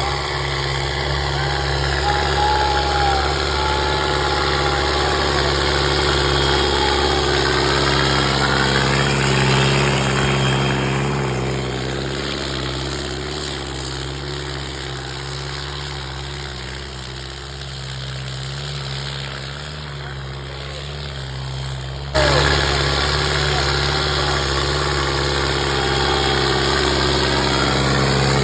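Sonalika 750 tractor's diesel engine running steadily. It eases off somewhat in the middle and jumps abruptly louder about 22 seconds in.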